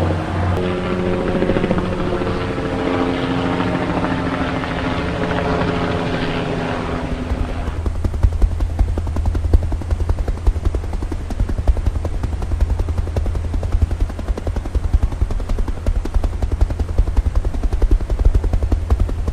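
Helicopter running: for the first several seconds a steady turbine whine with several held tones. About eight seconds in it changes abruptly to the rapid, low beat of the rotor blades.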